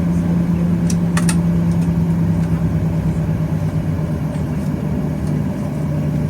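Steady low drone inside the cabin of a Boeing 737-800 on the ground, its engines running at idle; the hum drops slightly in pitch near the end. A couple of faint clicks sound about a second in.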